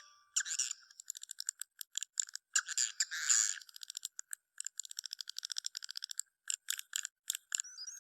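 Swiftlet calls: rapid trains of short, sharp chirping clicks, broken by brief gaps.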